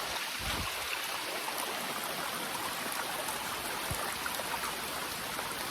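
Steady rush of a swollen river with rain falling, and two faint low knocks, about half a second in and near four seconds in.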